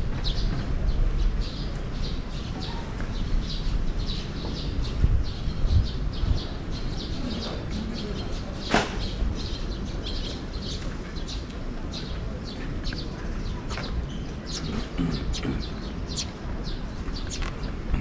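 Small birds chirping in short, repeated high calls over a steady low rumble of city and wind noise, with one sharp click about nine seconds in.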